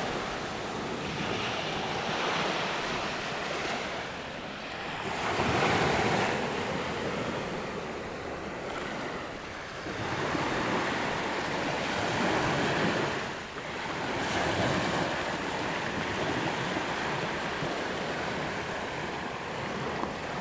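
Sea waves breaking and washing ashore, a steady rush of surf that swells and eases every few seconds.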